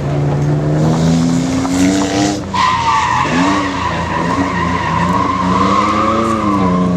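BMW E30 drifting: the engine revs up for about two seconds, then the tyres break into a long steady squeal lasting about four seconds while the engine note rises and falls under the throttle.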